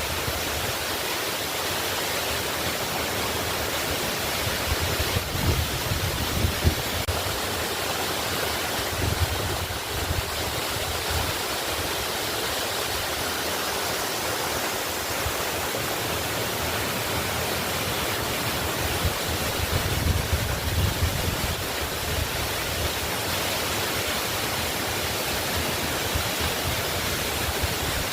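Waterfall rushing in a steady, even roar of falling water, with irregular low rumbles coming and going a few times.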